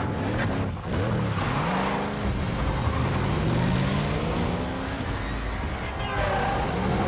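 Powerful car engines revving as cars speed by, their pitch sweeping up and down, over the hiss of rain and tyres on a wet road.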